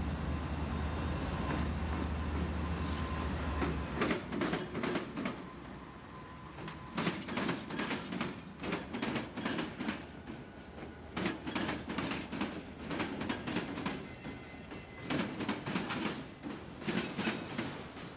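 Freight train passing close by. A diesel locomotive's low engine drone for the first four seconds or so gives way to the wheels of passing cars clattering over rail joints and the crossing diamond in repeated groups of sharp knocks.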